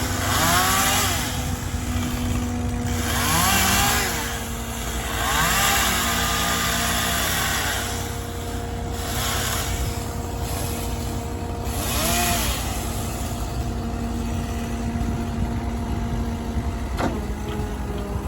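A work-truck diesel engine runs steadily while a chainsaw revs up and back down in about five bursts of a second or two each. Near the end the diesel's note drops.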